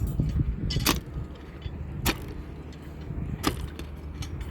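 A metal digging tool striking into hard ground three times, about once every second and a quarter, each strike sharp and briefly ringing, over a low rumble.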